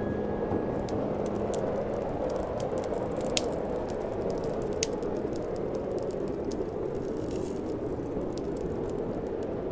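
Campfire crackling, with scattered sharp pops over a steady low rush of noise.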